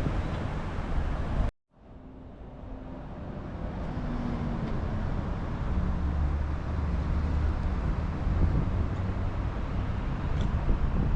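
Steady wind and road noise from a mountain bike ride, with road traffic in the background. The sound cuts out for a moment about one and a half seconds in and then builds back up.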